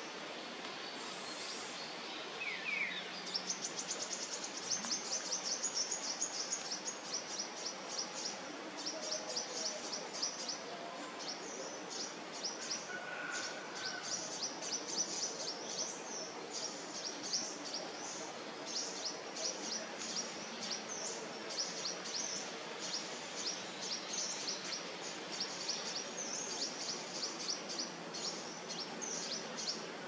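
Rapid, high-pitched bird chirping in a continuous run of short notes, starting a couple of seconds in, over a steady outdoor background hiss.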